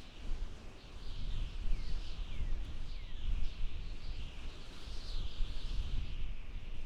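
Small birds singing in quick repeated chirping phrases, with a few short falling notes, over a low, uneven rumble.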